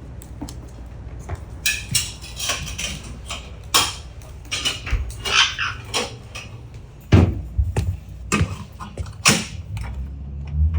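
Irregular clicks, knocks and light rattles of small hard objects being handled, with some rustling, and one louder knock about seven seconds in.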